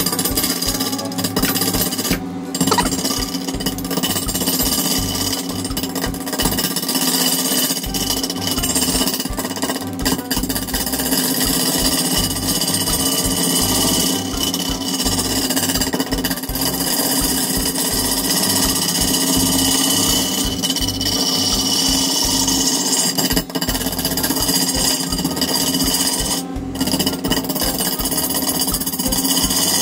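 A woodworking power tool running continuously with a dense, rapid rattle.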